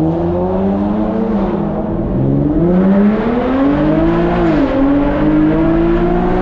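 Infiniti G37 Coupe's VQ-series V6 through a full titanium Tomei exhaust, accelerating hard. It is loud, its pitch climbing through the revs and dropping sharply at two upshifts, about two and a half and four and a half seconds in, then climbing again.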